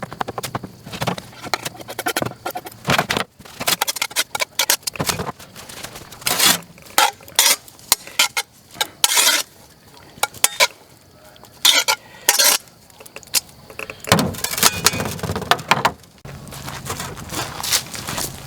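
Knife chopping leftover smoked brisket on a cutting board: a run of sharp, irregular knocks and clinks, coming in clusters with short pauses between them.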